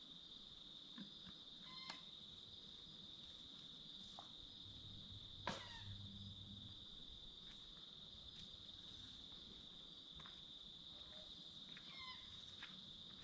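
Faint, steady, high-pitched insect chorus, crickets in the bush at dusk. A few soft clicks sound over it, and there is one short falling chirp about five and a half seconds in.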